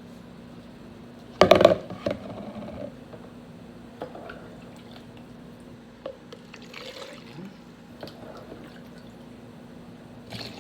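Homemade chicken broth being ladled and poured into containers, with small splashes and drips. There is one short, loud clatter about a second and a half in.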